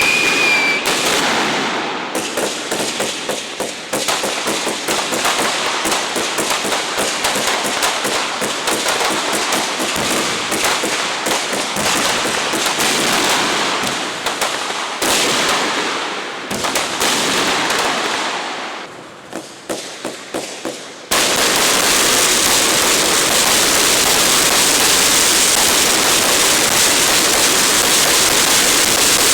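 Aerial fireworks crackling: a dense run of many small, sharp pops and bangs that thins out and grows quieter. About two-thirds of the way through it cuts off suddenly and gives way to a steady hiss.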